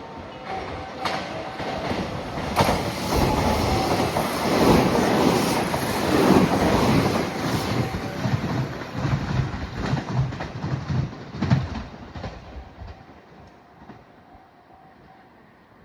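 An electric train running along the platform track, its wheels clattering over the rail joints. The noise builds to its loudest in the middle, then dies away near the end.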